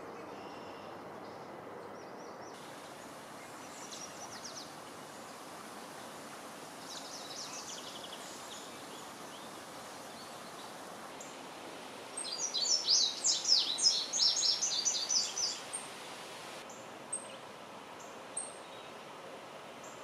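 Songbirds singing over a steady background rush of outdoor ambience. A few faint short phrases come first, then about twelve seconds in a close bird sings a loud, rapid run of high notes lasting about four seconds, followed by a few single high chips.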